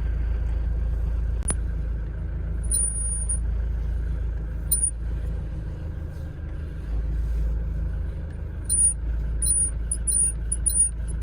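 High, short squeaks from a 1996 Mitsubishi Canter truck's steering wheel as it is turned, coming in a quick run near the end, over a steady low hum. They come from the brass horn contact pin rubbing dry on the contact ring under the wheel, which the owner takes to be out of grease.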